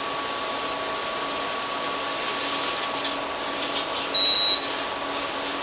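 Onions sautéing in melted butter in a heavy-bottomed pot, with faint crackles of sizzling over a steady hum. About four seconds in, a single short, high electronic beep sounds, the loudest thing heard.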